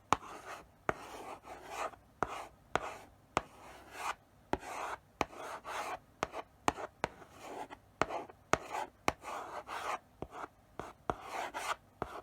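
Chalk writing slowly on a blackboard: short scratchy strokes, broken by sharp taps as the chalk meets the board at the start of each stroke.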